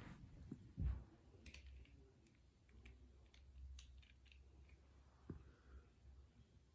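Faint, scattered clicks and taps of small plastic toy parts being handled and fitted together, with a soft thump about a second in.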